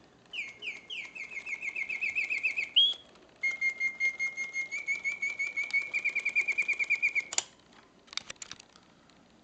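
1968 Reuge double singing bird cage's mechanical song: a bellows-driven whistle piping rapid trills of repeated notes that glide between pitches, with a brief break about three seconds in. The song stops about seven seconds in with a sharp click, followed by a few faint clicks of the mechanism.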